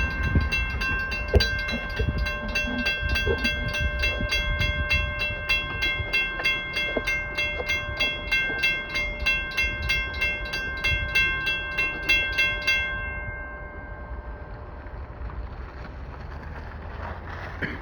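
Coal train's rail cars rumbling and clunking through a level crossing while the crossing's warning bell rings in rapid, evenly spaced dings; about 13 seconds in the bell stops suddenly and the low rumble of the passing cars goes on.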